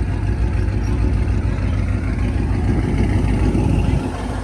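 Car engine running steadily with a deep exhaust rumble.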